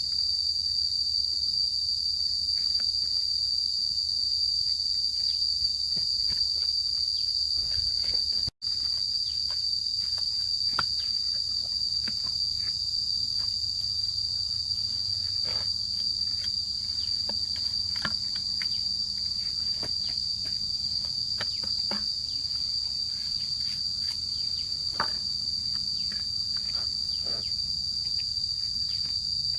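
Steady high-pitched insect chorus of crickets or cicadas, with scattered light taps and knocks from handwork. The sound cuts out for an instant about eight seconds in.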